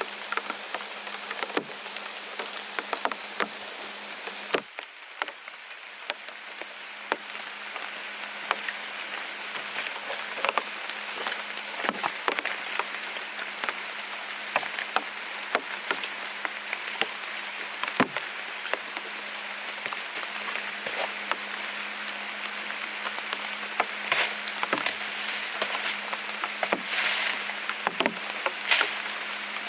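Rain falling steadily, with many irregular sharp drops and taps. A high steady whine stops abruptly about five seconds in.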